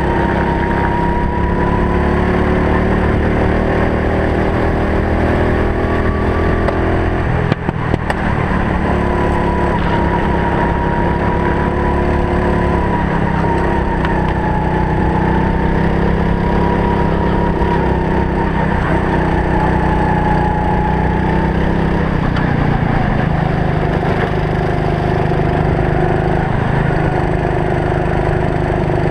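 Racing kart engine running hard at high, fairly steady revs, heard from the driver's helmet camera. There is a brief sharp knock about seven and a half seconds in, and a short dip in revs at about twenty-three seconds.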